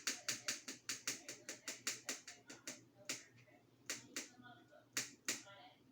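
A rapid, even run of sharp clicks, about seven a second, slowing after about three seconds to a few scattered clicks.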